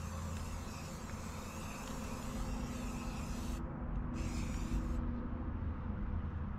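Aerosol spray can hissing as primer is sprayed onto parts: a long spray, a short break a little past halfway, a second short spray, then it stops. A low rumble runs underneath.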